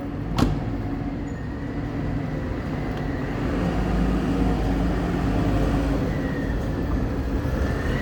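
Steady rumble of urban road traffic with a vehicle engine running, and a single sharp click about half a second in.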